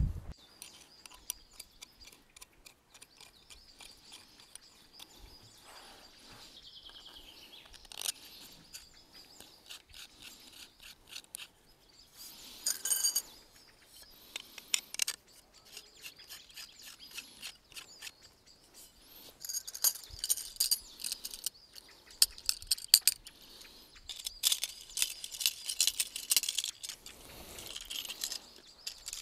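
Birds chirping with a steady high trill, over many small clicks and rustles of objects being handled.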